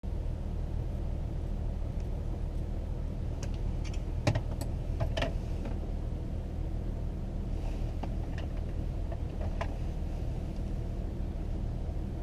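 Audi A6 3.0 TDI's V6 diesel engine running at a steady idle, a low even rumble with no revving. A few sharp clicks and a knock come through, the loudest about four seconds in.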